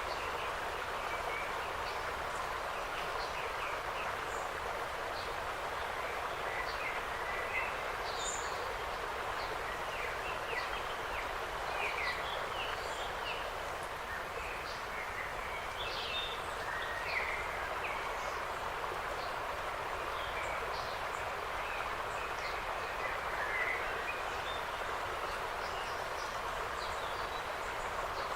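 Forest ambience: a steady rushing hiss with many short bird chirps and calls scattered throughout.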